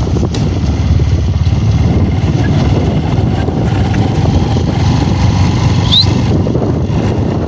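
Small motorcycle engine running steadily at a constant pace in third gear while riding, heard from the rider's seat.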